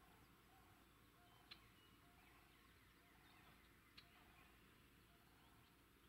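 Near silence with faint bird chirps, including two short, sharp chips.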